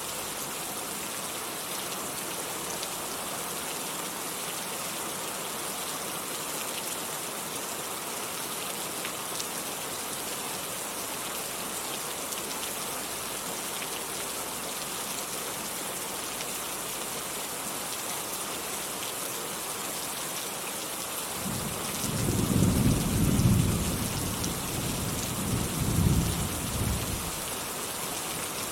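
Steady rain falling, with a roll of thunder rumbling low from about three-quarters of the way in, loudest in two swells before it fades near the end.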